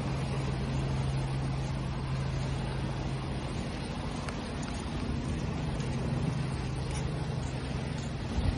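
Waves washing, over a steady low engine-like hum that runs throughout.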